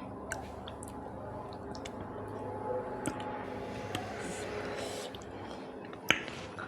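Close-up eating sounds: wet chewing and squishing of food, with scattered small clicks and one sharper click near the end.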